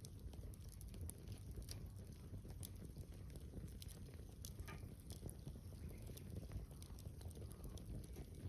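Wood campfire crackling, with scattered small pops and snaps over a steady low rumble.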